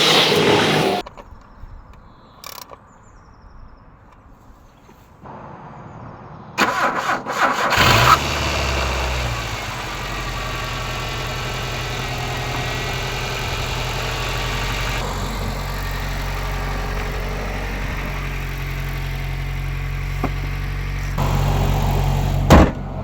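Mitsubishi Colt 1.5i petrol engine cranked by the starter about a quarter of the way in, catching after a second or so and settling into a steady idle. It is preceded by a short burst of noise at the start, with a sharp click near the end.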